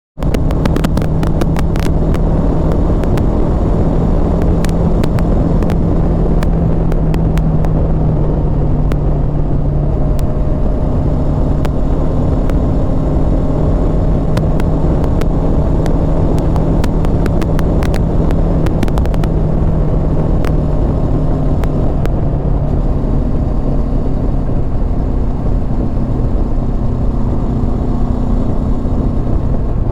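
Honda CB500X parallel-twin engine running at a steady cruise, under heavy wind rush on the mount-side microphone, with scattered sharp clicks, most of them in the first ten seconds. The engine note shifts slightly around ten seconds in and again past twenty.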